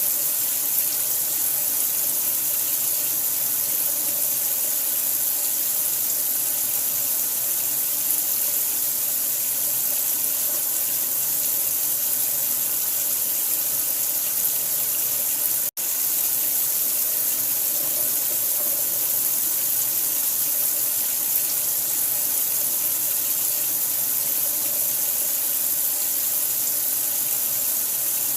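Steady running water, an even hiss that is strongest in the high end. It cuts out for an instant about sixteen seconds in.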